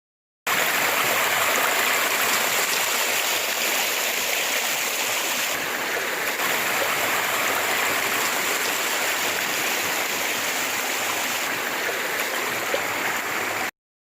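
Steady rush of flowing river water, cutting in about half a second in and cutting off abruptly near the end.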